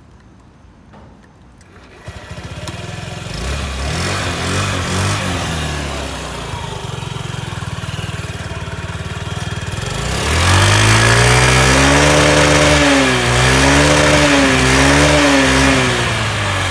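2013 Honda Ruckus 49cc single-cylinder four-stroke scooter engine on its stock exhaust. It starts about two seconds in and idles with a brief rev. In the second half it is revved louder several times, the pitch rising and falling with each blip.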